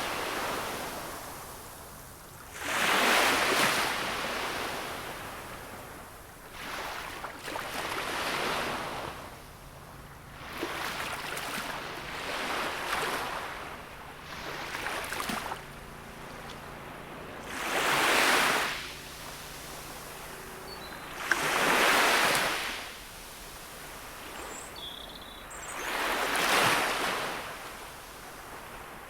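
Gentle sea waves breaking and washing on the shore, each one a swell of surf noise that rises and falls away, about every three to four seconds, with some surges louder than others.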